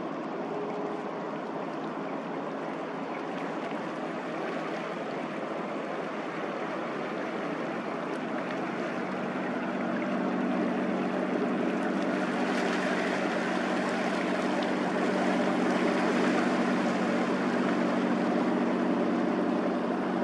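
Boat engine drone over rushing water. The engine hum grows stronger about halfway through, and the hiss of water swells soon after.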